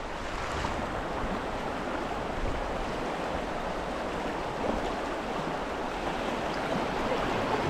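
Steady rushing of river water around the canoe.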